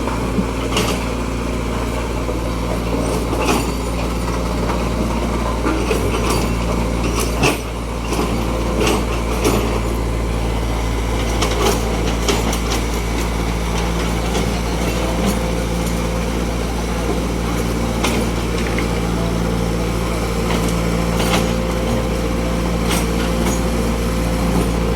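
Heavy vehicle engines running steadily, with scattered sharp clicks and knocks throughout and one louder knock about seven seconds in.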